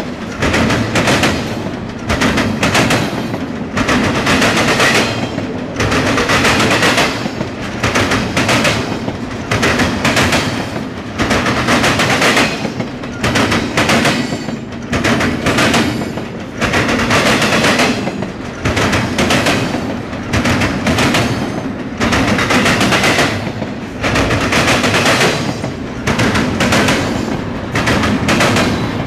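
Double-stack intermodal freight cars rolling past close by, their steel wheels clattering loudly on the rails. The rapid clacking swells and fades about every two seconds.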